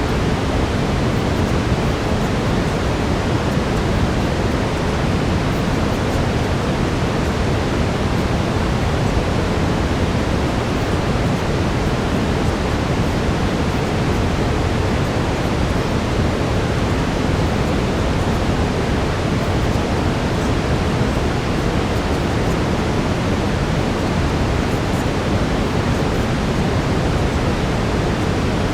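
Steady brown noise: an even, unchanging rush weighted toward the low end, with a faint steady tone mixed in.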